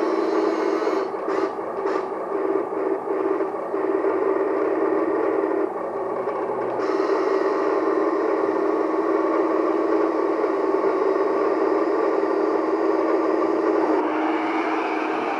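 Hydraulic pump of a Kabolite RC construction model running with a steady whine as the machine works, the tone shifting near the end.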